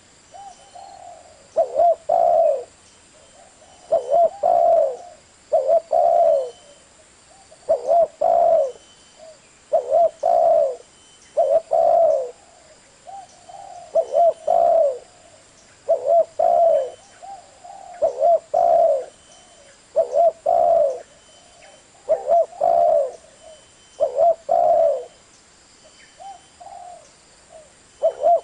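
Spotted dove cooing: a short phrase of a few low coos, repeated about every two seconds.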